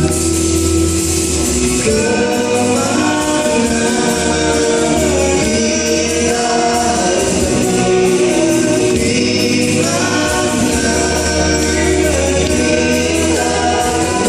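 A vocal group singing in harmony, with long held chords that change every couple of seconds.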